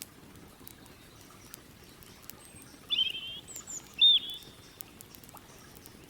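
A bird calls twice over a quiet outdoor background: a short warbling call about three seconds in, then a sharp hooked note a second later, the loudest sounds. Underneath, faint scattered crackles from a campfire and a steady low rush of the river.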